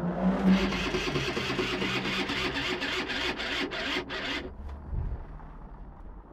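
Aprilia RS50's 50 cc two-stroke engine being cranked over with a fast, even rhythm for about four and a half seconds without catching, a sign that it won't start. A sharp click comes at the very end.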